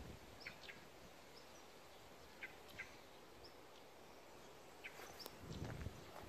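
Faint outdoor background with a few short, high chirps of small birds scattered through it. Near the end comes a low rumble of handling as the camera is swung down.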